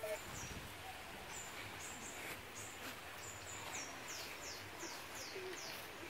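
A small bird calling: a series of thin, high notes, each falling in pitch. They begin about a second and a half in and come faster, about three a second, in the second half, over a faint outdoor background.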